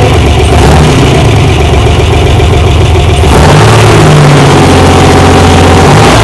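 Chevrolet Corvair air-cooled flat-six engine running loud and steady on a test rig at its first fire-up after being revived, fed by two carburetors with the other two blocked off. About three seconds in it picks up revs and runs harder.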